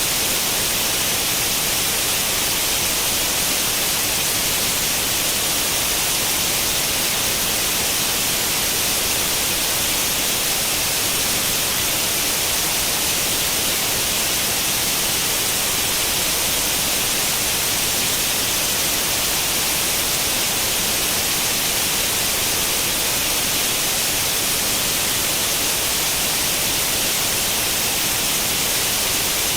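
Steady, unchanging white noise like the static hiss of an old CRT television tuned to no channel, strongest in the high hiss.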